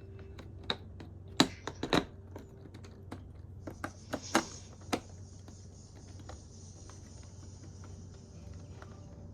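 Irregular sharp clicks and clacks of plastic LEGO pieces being handled and pressed together, the loudest in clusters about one and a half seconds in and again around four to five seconds, followed by a faint steady hiss.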